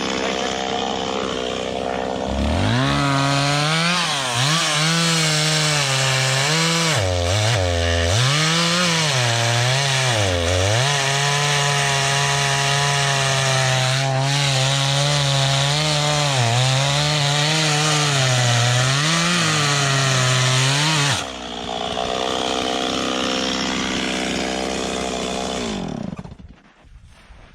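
Holzfforma two-stroke chainsaw revved up to full throttle about two seconds in and cutting through a log, its engine pitch sagging repeatedly as the chain bites into the wood. About 21 seconds in the throttle is released, and it drops back to idle before dying away near the end.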